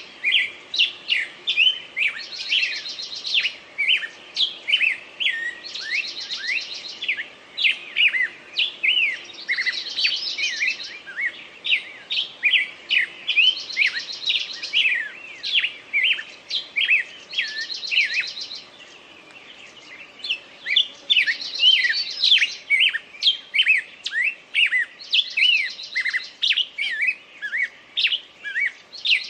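Songbirds singing: a steady stream of quick, high chirps, with one bird's short buzzy song phrase repeating every three to four seconds. The chirping thins out briefly about two-thirds of the way through.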